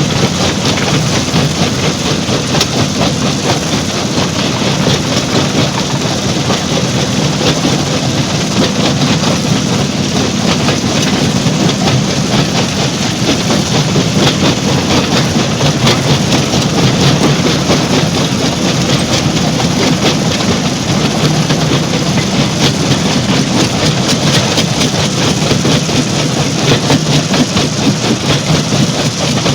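Stone crusher plant machinery running steadily, a heavy engine-like noise mixed with constant fine clatter.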